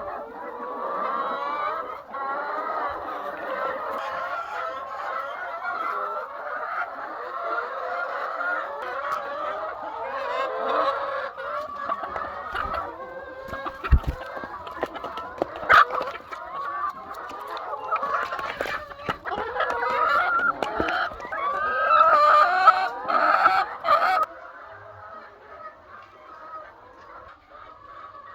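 A flock of chickens clucking and calling over one another in a continuous din, with a few sharp knocks partway through. About 24 seconds in the din drops to a much quieter background of calls.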